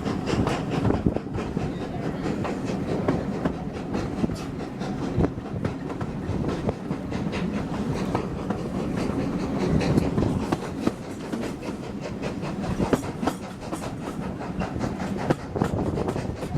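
Railway carriage running along the line, heard from aboard: a steady rumble with the wheels clicking over the rail joints.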